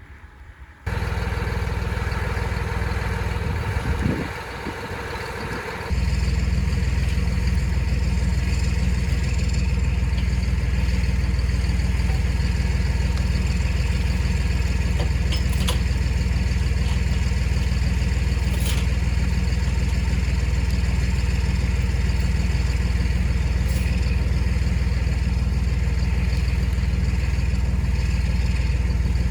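Tractor engine running steadily. It starts abruptly about a second in and grows louder about six seconds in.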